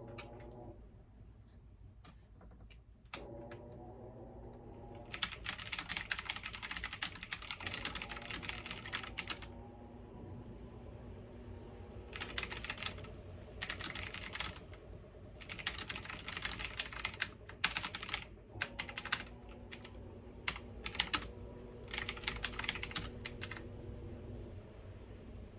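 Computer keyboard typing in spurts of rapid key clicks with short pauses between, over a steady low hum.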